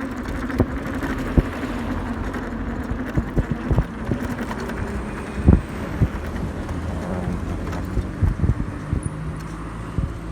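An electric hub-motor pit bike being ridden: a steady rush of wind and tyre noise, with knocks and thumps scattered throughout. The strongest thump comes about five and a half seconds in.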